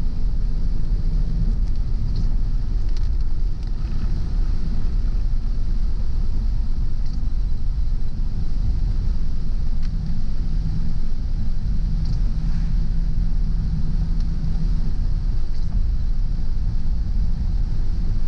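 Car driving at steady speed: a continuous low rumble of engine and tyres on the road, with a steady hiss above it.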